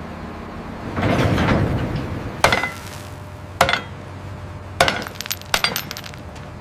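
A swell of noise about a second in, then a run of sharp clinks with a brief ringing: single strikes about a second apart, then a quick cluster near the end.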